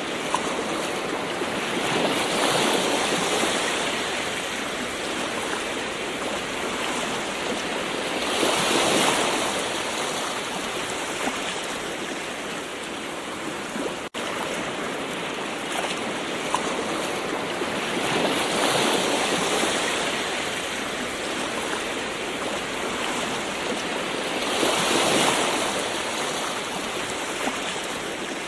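Gentle ocean waves washing in, an even hiss of surf that swells four times as waves break and draw back. It cuts out for an instant about halfway through.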